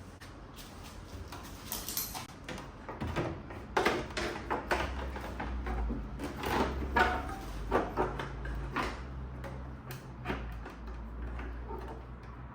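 Irregular knocks and clatter of things being handled, over a low steady hum.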